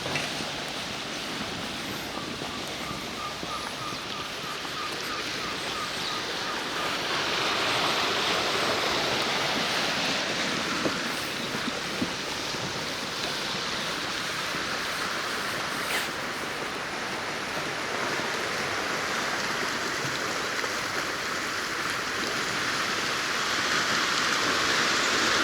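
Steady rushing sound of water, getting louder about seven seconds in, with a faint rapid ticking for a few seconds early on and a few light clicks.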